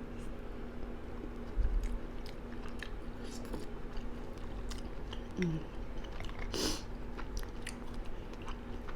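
A person chewing spoonfuls of gumbo close to the microphone: wet mouth clicks and smacks at irregular intervals, with a brief vocal hum about five seconds in. A faint steady hum runs underneath.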